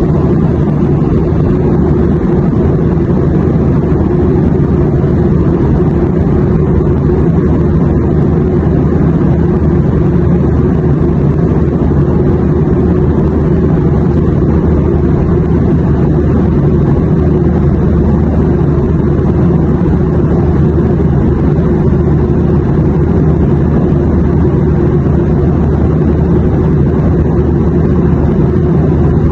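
Airplane cabin noise: a steady, unchanging low rumble, strongest in the bass.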